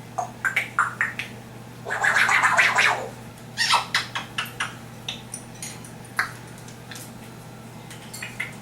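African grey parrot making a string of sharp clicks and short raspy, scratchy noises, with one longer harsh rasp about two seconds in.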